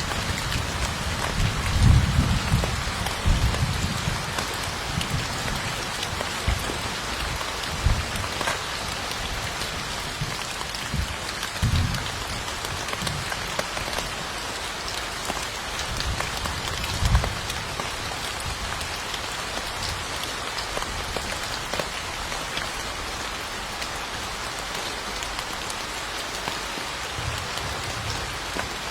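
Steady, heavy rain falling, a continuous hiss of drops. Short low rumbles come and go a few seconds in and several more times later, then die away.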